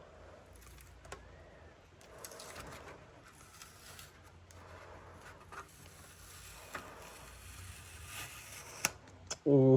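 Faint handling sounds: scattered light clicks and soft rustling, with one sharp click near the end. Just before the end a man's voice starts a loud, drawn-out "ooh".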